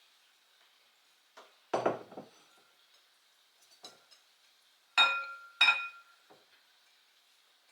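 Dishes or other kitchenware being handled: a dull knock about two seconds in, then two ringing clinks about half a second apart.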